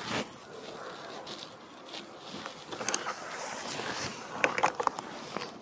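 Close rustling and handling noise, with a few sharp clicks about three seconds in and a cluster of them near the end.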